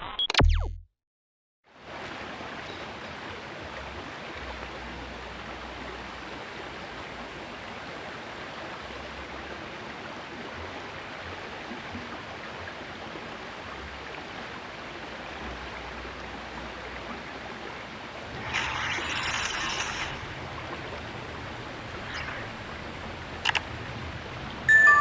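Steady rushing of flowing water in a small river, with a louder stretch of about two seconds about three quarters of the way through and a sharp click near the end.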